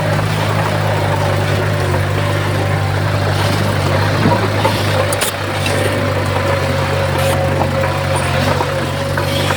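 Komatsu D51PX bulldozer's diesel engine running steadily under a low drone, with a steady whine above it. A few sharp clicks or knocks fall about halfway through.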